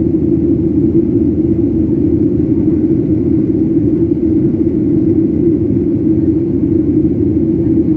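Steady low rumble of a Boeing airliner's jet engines and airflow, heard inside the passenger cabin in flight.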